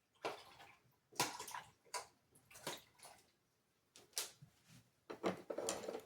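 Paintbrush being rinsed in a jar of water: a series of short, uneven swishes and splashes, the longest near the end.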